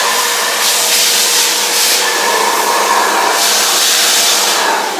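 Cleanfix S 10 vacuum cleaner running at full suction. The hiss of the air swells and fades as the nozzle is moved. Near the end it is switched off and the motor begins to wind down.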